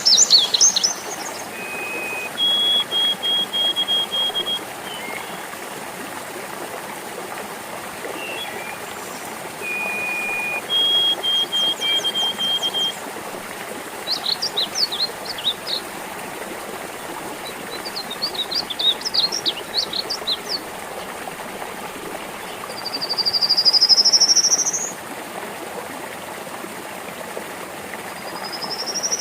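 Birds singing over the steady trickle of a small stream. The calls include short runs of even high pips, bursts of quick chattering notes, and a long rising trill about two thirds of the way through.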